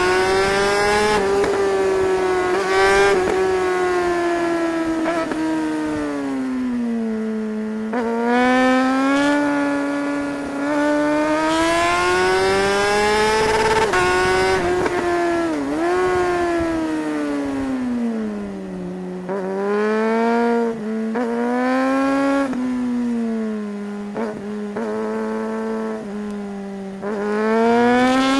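Suzuki GSR 600's inline-four engine being ridden hard, its pitch climbing and falling again and again, with quick drops at gear changes.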